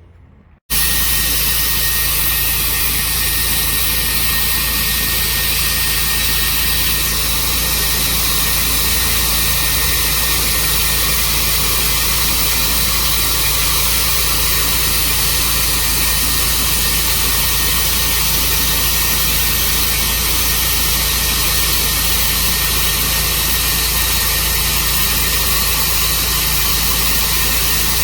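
Sawmill running steadily after a sudden start just under a second in: a constant engine hum under a loud, even hiss that does not change.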